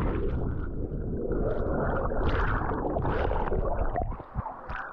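Muffled gurgling and sloshing of water with a low rumble, dropping in level about four seconds in.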